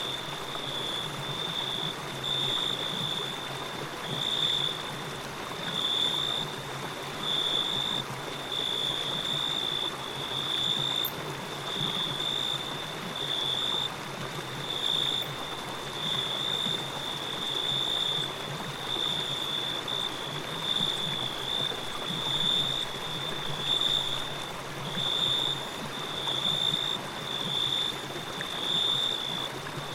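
Steady rushing and trickling of running water, with a high-pitched chirp repeating about once a second over it.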